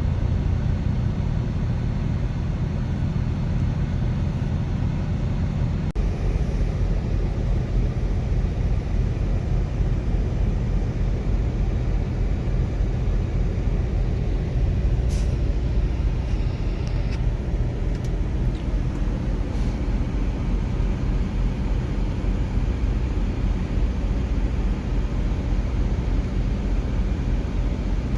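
Semi truck's diesel engine running steadily, a low even rumble, with a few brief clicks about halfway through.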